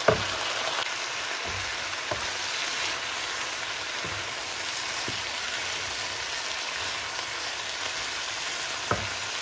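Diced mixed vegetables, liver and sausage sizzling steadily in oil in a frying pan, with a few light knocks of a wooden spoon against the pan, the sharpest right at the start and another near the end.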